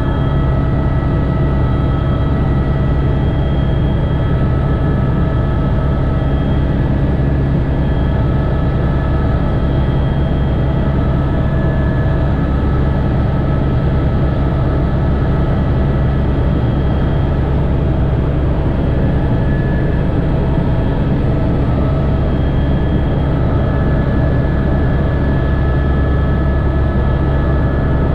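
Helicopter's engine and rotor running steadily in flight, heard from the cockpit: a constant low drone with thin steady whines above it.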